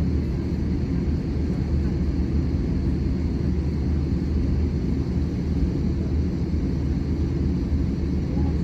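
Cabin noise inside an Airbus A320-200 airliner: a steady low rumble of the engines and airframe with no distinct events.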